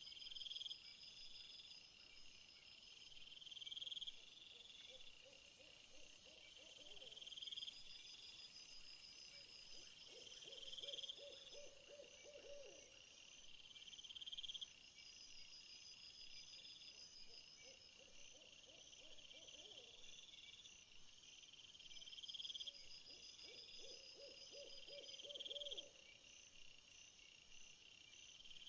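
Faint insect chorus: crickets repeating short trills, with a high hissing buzz. Four times, a low rapid trill call sounds, each lasting about two seconds.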